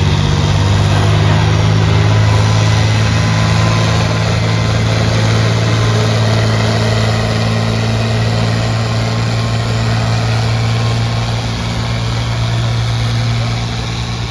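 Pulling tractor's engine running hard under load as it drags the weight sled, a loud, steady low drone that eases slightly near the end.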